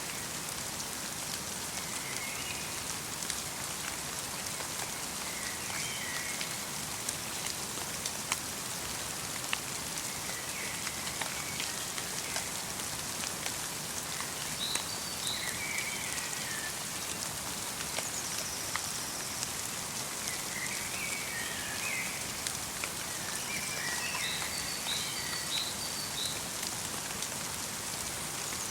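Steady light rain, with drops ticking on the surfaces around. Small birds give short chirps every few seconds.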